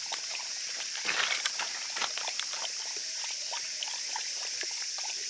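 Steady high-pitched drone of bush crickets (katydids), with a brief rustle about a second in and scattered light clicks and taps after it.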